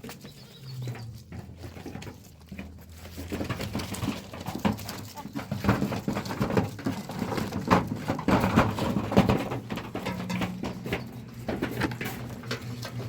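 Goats moving about, with many short knocks and clicks that thicken in the second half.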